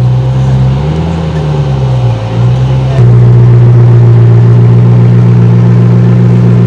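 Koenigsegg Agera R's twin-turbo V8 idling steadily, with a brief, gentle rise and fall of revs about a second in. The idle becomes abruptly louder about three seconds in.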